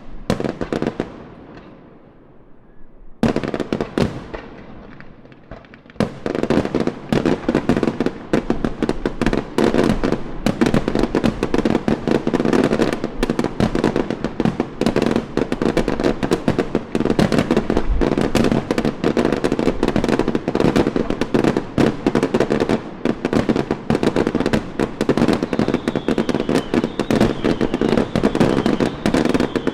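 Fireworks display: a few separate bangs, each fading away, in the first seconds, then from about six seconds in a dense, continuous barrage of bangs and crackles.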